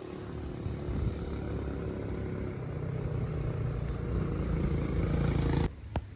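Street traffic: a vehicle engine running and growing louder as it draws close, then cutting off abruptly near the end, followed by a single click.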